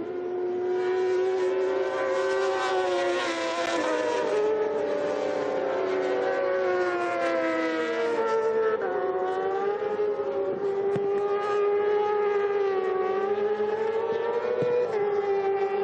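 Several racing motorcycle engines running at high revs together, a sustained high-pitched whine whose pitch drifts slowly up and down.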